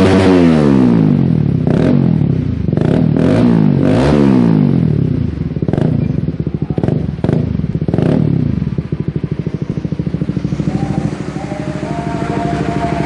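Honda CBR150R single-cylinder four-stroke engine through a locally made Akrapovic-style slip-on muffler, being revved. The revs drop from high, then come several quick throttle blips. After about two-thirds of the way through it settles to a pulsing idle.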